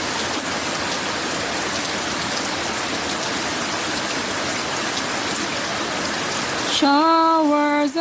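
Steady rain falling, an even wash of rain noise. About a second before the end, a voice begins singing in long held notes.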